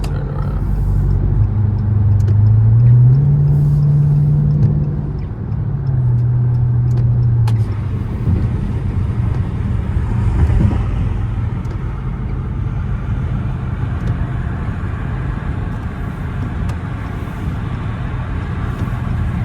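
Dodge Charger R/T's V8 accelerating while it is driven: the engine note rises and grows louder over the first few seconds, drops at a gear change about five seconds in, then settles into a steady cruise.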